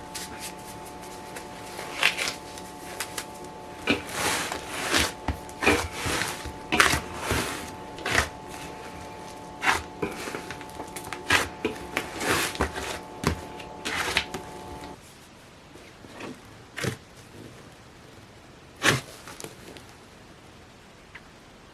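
Hands kneading a large lump of slime: irregular sticky pops and clicks, closer together in the first two-thirds and sparser near the end. A steady hum of several tones runs underneath and stops about two-thirds of the way through.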